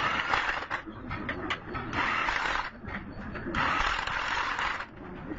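Hand-tool work on metal gearbox parts: three rasping strokes, each about a second long, with small metallic clicks between them.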